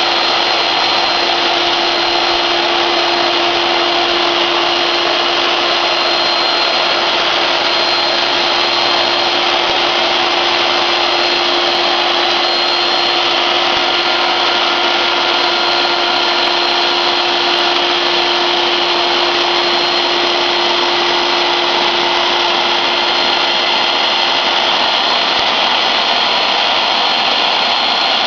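CNC router running and cutting a slot car track, a steady machine noise with a constant whine from the spindle.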